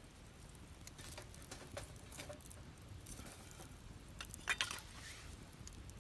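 Wood fire crackling in a fire pit, with scattered sharp pops over a low steady flame rumble and a louder cluster of pops about four and a half seconds in.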